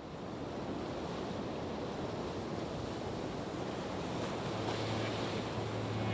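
A steady rushing noise, like surf or wind, that fades in. A low held note comes in about four seconds in as music begins.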